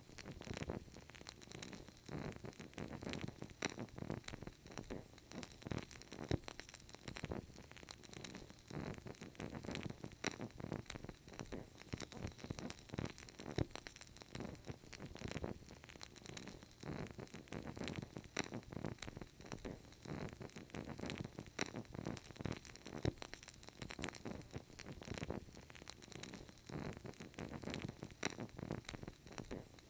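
Burning candle crackling softly: frequent small irregular clicks and pops over a faint steady hiss.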